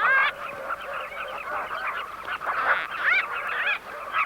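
A flock of southern carmine bee-eaters calling at their riverbank nesting colony: many short, overlapping calls, busiest right at the start and again about three seconds in.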